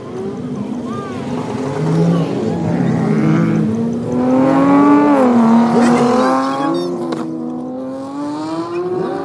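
Car engine revving, its pitch rising and falling several times and loudest about halfway through.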